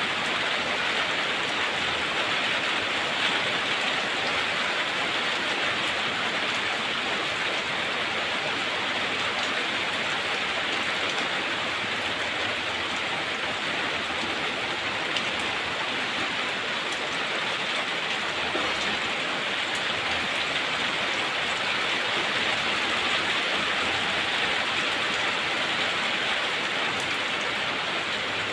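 Steady rain falling, an even hiss with no break and no birdsong standing out.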